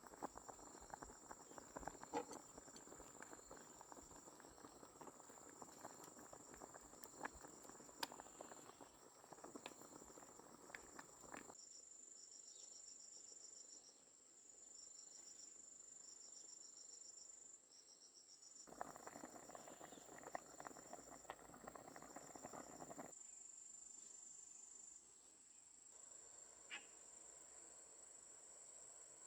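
Insects trilling in a steady, faint high drone, with crickets chirping in short, evenly pulsed runs. Through the first part and again near the middle there is a faint rustling noise with scattered small clicks.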